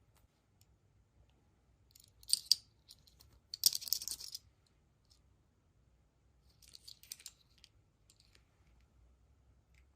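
Crinkling and clicking from surprise-egg wrappers and small plastic toy pieces being handled, in three short bursts: about two seconds in, a longer and louder one around four seconds, and a shorter one near seven seconds.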